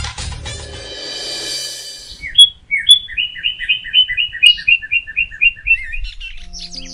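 Birdsong: a bird chirping in a fast run of short repeated notes, about four a second, starting about two seconds in, with other bird calls near the end. Music fades out in the first second.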